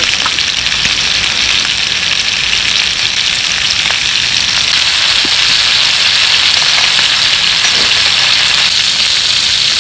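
Pork-wrapped rice-cake skewers sizzling steadily on a hot griddle pan, with a few light clicks of metal utensils.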